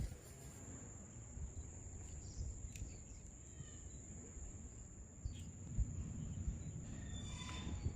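Steady high-pitched insect chirring, like crickets, over irregular low rumbling, with a few faint clicks and a short pitched call near the end.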